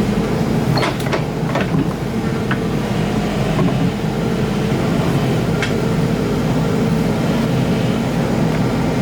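Excavator's diesel engine running steadily under load, with a few sharp knocks, several in the first two and a half seconds and one more about five and a half seconds in.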